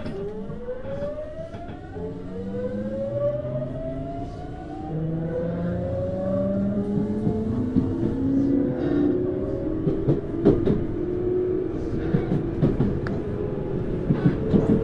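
Hitachi GTO-VVVF inverter and traction motors of a Tokyu Series 9000 electric train whining as it accelerates from a stop, several tones climbing steadily in pitch, heard inside the motor car. The climb eases off after about eight seconds, and wheels click over rail joints more and more often toward the end.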